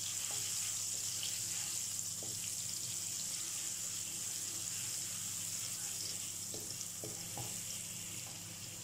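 Ginger-garlic paste sizzling steadily in hot oil in a non-stick wok, stirred with a wooden spatula that gives a few faint scrapes.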